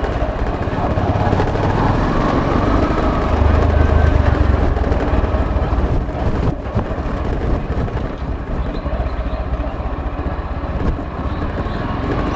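Motorcycle running on the move, a steady mix of engine and road and wind noise.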